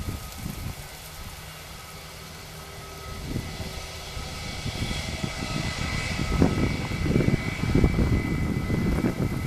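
Airbus A319's jet engines running: a steady high whine over a low rumble, growing louder from about halfway through.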